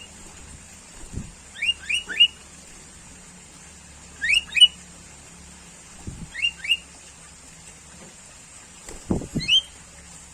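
Sooty-headed bulbul calling: short quick rising notes in bursts of two or three, repeated about every two seconds.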